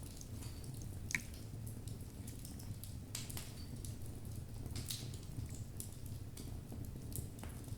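Wood logs burning in a fireplace: irregular crackling with scattered sharp pops, the loudest about a second in, over a steady low noise of the flames.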